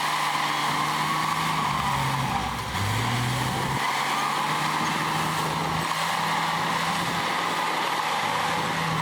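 Heavy diesel engine of earthmoving machinery running under load. Its speed drops about three seconds in and picks back up about a second later.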